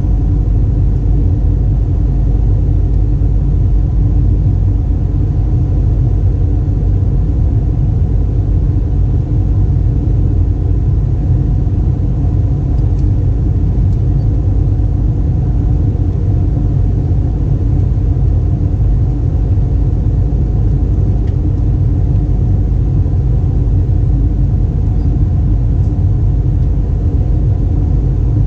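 Steady, loud low rumble of an Airbus A320's cabin in flight: engine and airflow noise heard from inside the aircraft, with a faint steady hum over it.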